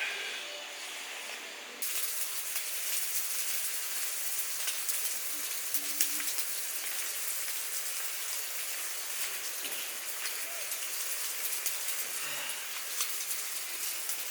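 Steady rain pattering, many small drops ticking over a constant hiss, starting abruptly with a cut about two seconds in.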